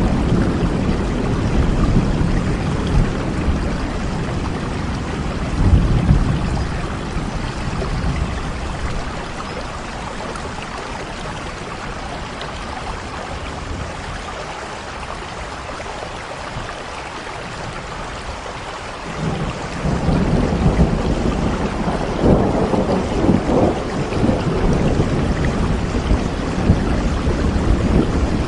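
Steady rain falling, with a deep rumble underneath that eases off around the middle and swells back up about two-thirds of the way through.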